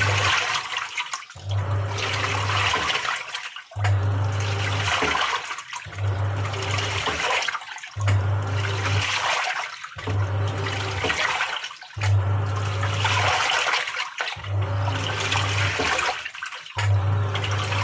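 Samsung 6.5 kg top-loader washing machine agitating: the pulsator motor hums in strokes of about a second, roughly one every two seconds, about eight times, churning and sloshing the water and laundry in the tub.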